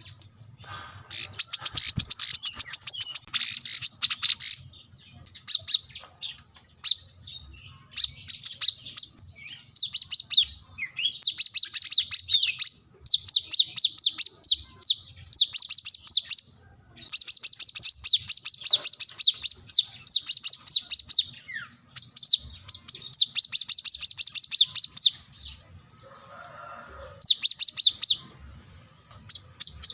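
Brown-throated sunbird (kolibri kelapa) singing: repeated phrases of rapid, high, twittering chirps, each a second or two long with short pauses between.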